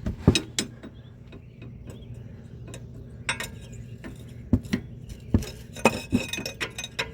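Sharp, irregular metal clinks and taps of a wrench working on a stuck EGR tube fitting on the engine, over a steady low hum.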